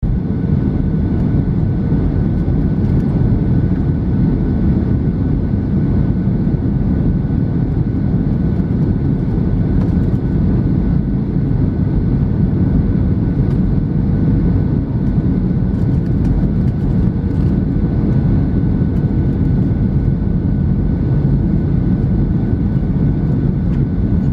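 Steady cabin noise inside a Boeing 737-700 in flight: a dense low rush of airflow and engine noise from its CFM56-7B turbofans, with a thin steady whine above it, unchanging throughout.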